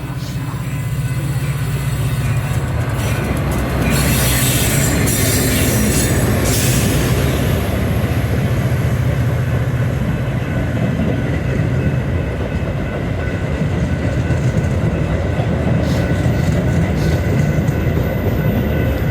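Train rolling past close by: a loud, steady rumble of wheels and engine, with hissing high noise a few seconds in and high-pitched wheel squeal.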